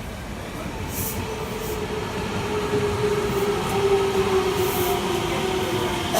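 Ten-car electric commuter train pulling into the station platform, growing louder as it approaches. A steady whine slowly drops in pitch as it brakes, with a few short bursts of high hiss over the rumble of the wheels.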